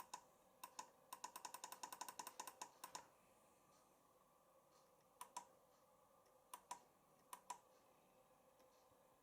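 Clicks from a Siemens iQ washing machine's control panel buttons as the spin options are cycled through. There is a quick run of about fourteen clicks, then three spaced pairs.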